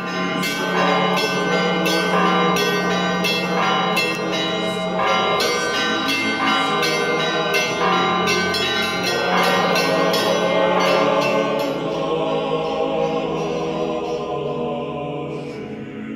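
Church bells ringing: a quick run of many strikes over a steady low bell tone, thinning out and fading over the last few seconds.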